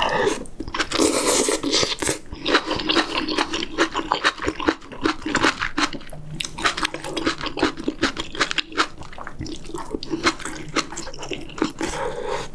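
Close-miked wet chewing of braised kimchi and pork rib stew, full of quick mouth clicks and smacks.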